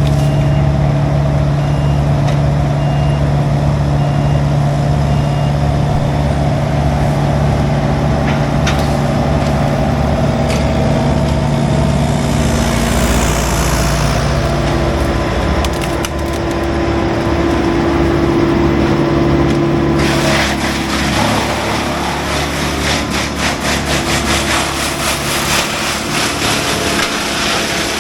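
Heavy diesel tree-work machinery running steadily, with a backup beeper sounding for the first few seconds. About 20 seconds in, dense crackling and splintering of wood begins and continues.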